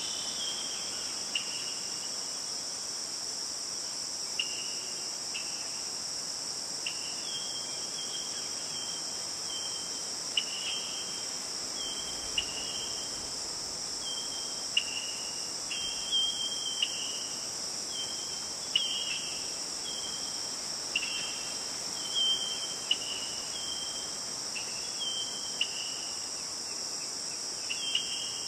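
Steady, high-pitched chorus of insects such as crickets, with short clear notes repeated about once a second that alternate between two pitches.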